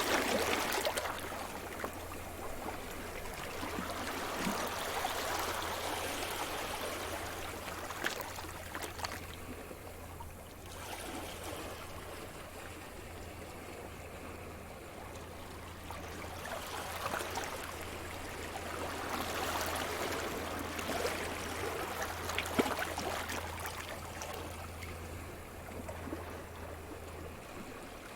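Sea surf washing onto the shore, with waves breaking and running back in slow swells, each rising and fading over several seconds. A faint steady low hum runs underneath and stops near the end.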